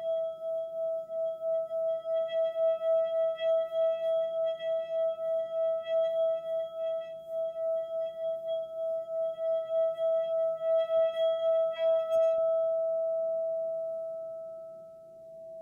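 A single sustained ringing tone with overtones, wavering in loudness about four times a second, as relaxation music. About twelve seconds in, the wavering and the upper overtones stop and the tone fades away, then a plain steady tone comes in near the end.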